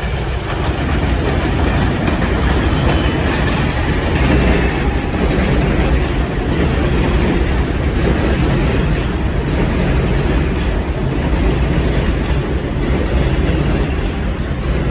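New York City Subway 4 train, an R142-series car, running along the track: a loud, steady train running noise.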